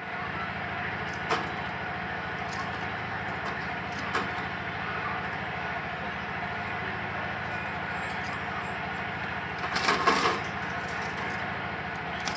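Steady background din of a busy outdoor market, with a few sharp clicks and a louder clatter about ten seconds in.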